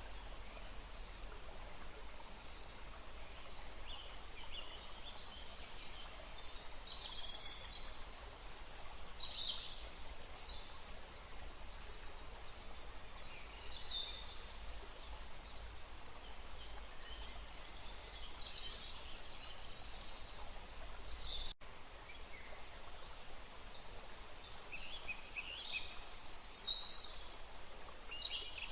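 Several small birds chirping and trilling in short high calls throughout, over a steady background hiss of wind in the trees and running water with a low rumble. The sound cuts out for an instant about two-thirds of the way through.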